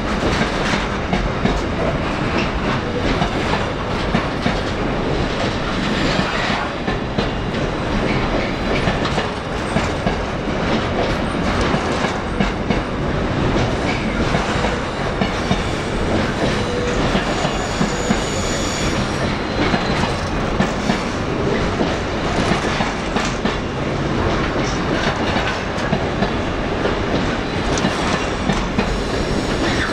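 A train running along the rails, its wheels clattering steadily over rail joints, with a brief high wheel squeal about two-thirds of the way through.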